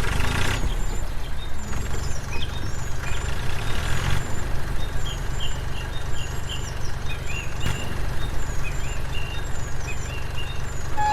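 Tractor engine idling steadily with a low, even rumble. Small birds chirp at intervals above it.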